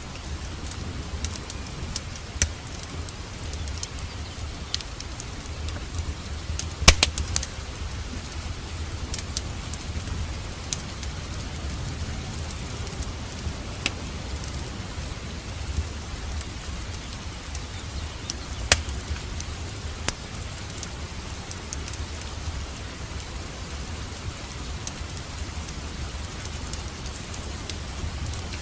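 Steady rain with a fireplace crackling over it. Scattered sharp pops from the fire come through, the loudest about seven seconds in and another near nineteen seconds.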